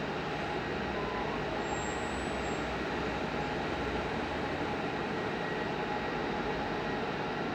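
Electric locomotive and its coaches pulling out of a station, a steady rumbling running noise with faint whining tones.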